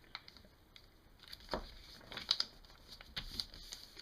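A large sheet of paper rustling and crinkling as it is folded and creased by hand, with several short crisp rustles, the loudest about two seconds in.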